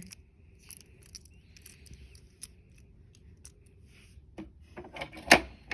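Small toy trains being handled: scattered light clicks and rustles, with one sharper click near the end.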